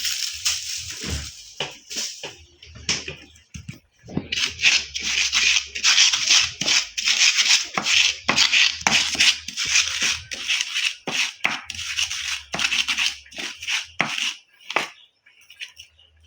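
Sambal ingredients (raw shallots and sugar) being ground and crushed by hand, a rapid run of scraping, crunching strokes. The strokes ease briefly a few seconds in, then come thick and fast until they stop near the end.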